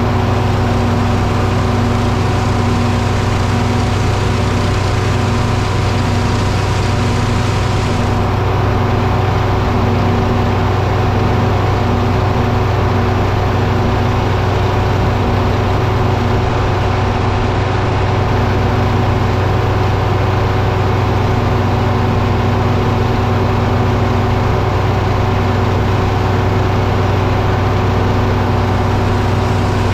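Engine running steadily at a constant speed, a loud even hum with no sign of a saw cut or load change.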